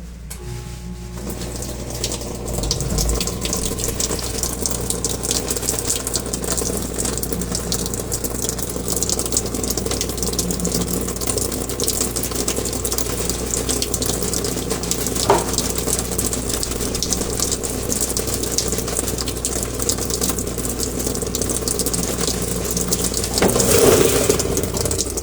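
Whirlpool Xpert System washing machine running, with water rushing in steadily over a constant mechanical hum. There is a single sharp knock about halfway through and a brief louder surge near the end.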